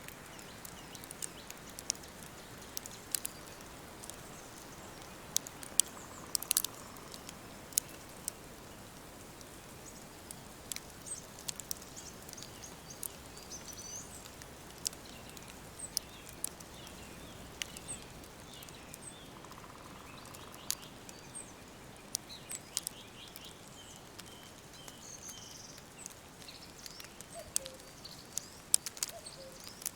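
Wood fire crackling with frequent sharp pops over a steady low hiss, while small birds chirp now and then, with a run of quick chirps about three-quarters of the way in.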